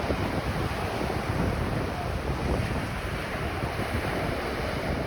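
Ocean surf washing steadily on a beach, with wind buffeting the microphone in a constant low rumble.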